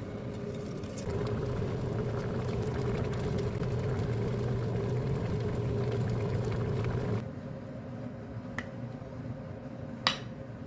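A steady mechanical hum with a low drone, which gets louder about a second in and drops suddenly partway through. A sharp click comes near the end.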